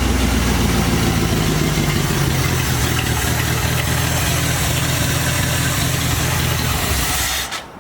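1973 Dodge D100's 318 V8 idling steadily, the engine running again after long sitting; the sound stops abruptly near the end.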